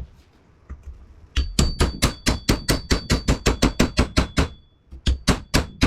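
Rapid hammer blows on metal, about six a second for roughly three seconds, with a thin high metallic ring hanging under them. After a brief pause, a few more blows come near the end.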